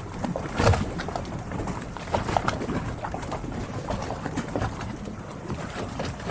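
Harbour water lapping and splashing against moored yachts, with irregular short knocks and creaks; the loudest knock comes just under a second in.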